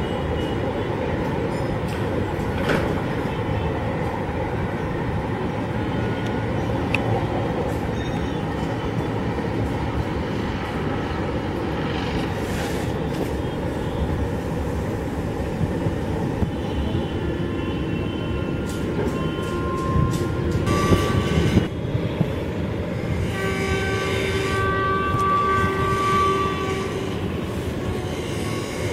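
Express train running away along the track, a steady rumble of wheels on rail. Near the end an electric locomotive's horn sounds for about three seconds, held on one steady chord.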